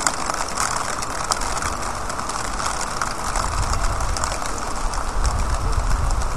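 Heavy rain falling steadily, a dense patter of drops striking the pavement and nearby surfaces, with a low rumble swelling in the second half.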